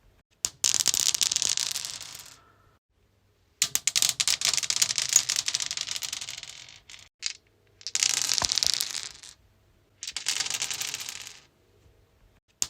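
Dice rolled across a stone surface, clattering and tumbling to a stop, about five separate rolls with short pauses between them.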